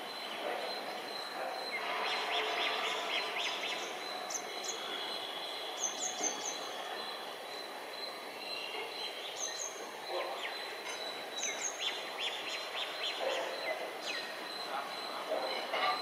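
A WAP7 electric locomotive and its coaches running in along the rails: a steady rumble and hiss of wheels on track, with clusters of clicks and a few short high chirps.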